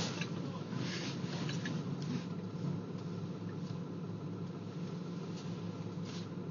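A vehicle engine idling steadily, with a few short scuffs or rustles over it.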